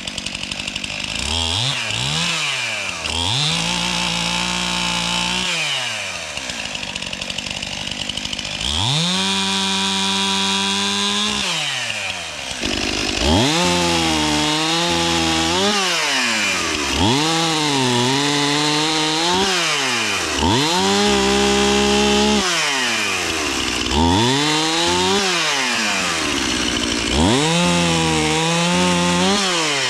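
Chainsaw revved up again and again while cutting wood: the pitch climbs, sags a little while held, then drops back to idle, about nine times.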